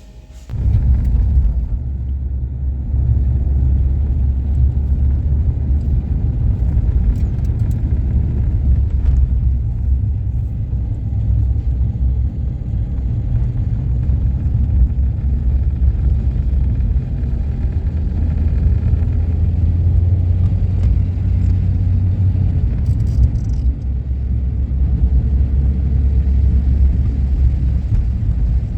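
Wind rumbling and buffeting against the microphone in a snowstorm: a loud, uneven low roar that starts abruptly about half a second in.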